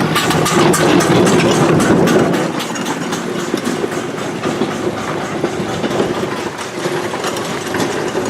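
Train running along the track, with a quick run of clattering clicks that is loudest for the first two seconds or so, then eases into a steadier rumble.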